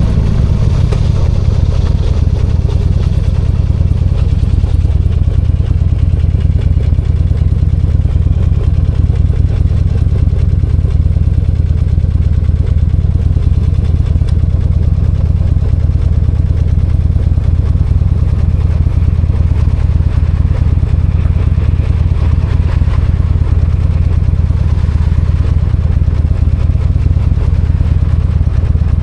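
V-twin motorcycle engine running steadily, its low, even beat unchanging throughout.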